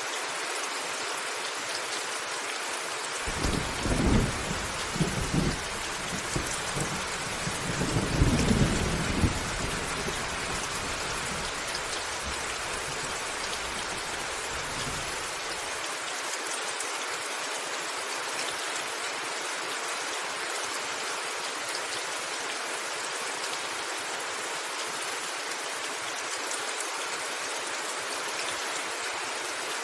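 Steady rain falling on a rooftop, with a roll of thunder coming in about three seconds in. The thunder peaks twice, around four and again around eight seconds, then rumbles away and dies out well before the end, leaving only the rain.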